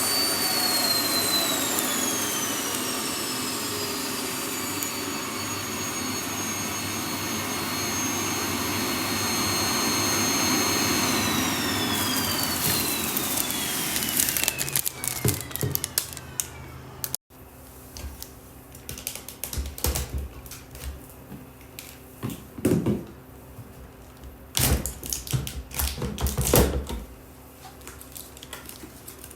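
Vacuum cleaner motor running with a high whine that drops in pitch and holds. It then winds down, falling steadily in pitch until it stops. Afterwards come scattered clicks and knocks of the cleaner being handled.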